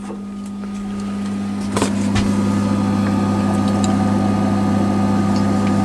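An engine idling with a steady low hum that grows louder over the first couple of seconds and then holds even. A single light knock comes about two seconds in.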